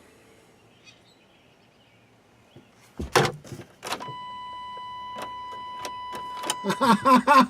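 A loud clunk with a few clicks about three seconds in, then a steady electronic beep held for about two and a half seconds, typical of a vehicle warning chime.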